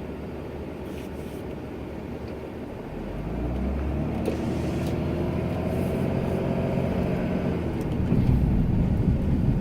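Ram 2500 pickup engine running low for about three seconds, then revving up, its pitch climbing a little, and running harder and louder toward the end.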